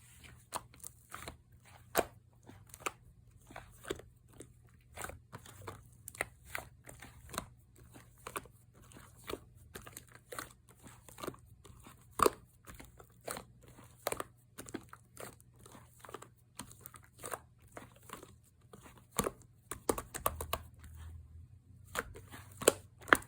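Slime being kneaded and mixed by hand: a dense run of irregular wet clicks, pops and squelches, several a second, over a steady low hum.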